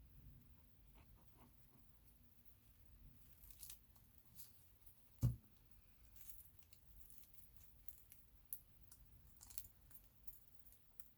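Near silence with faint rustles and light ticks of hands working on a paper-and-nature collage, and one short low knock about five seconds in.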